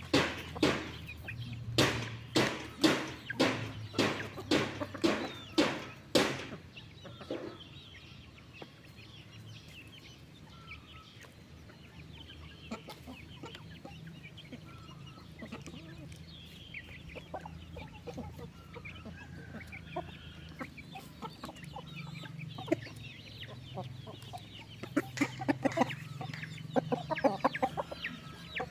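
Chickens clucking softly while feeding. In the first six seconds there is a run of sharp knocks about twice a second, and near the end a flurry of quick taps.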